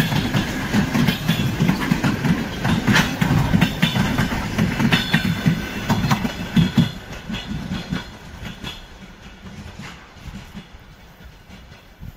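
Electric multiple unit commuter train passing close by, its wheels clattering over the rail joints. The sound fades away after about seven seconds as the last car goes by.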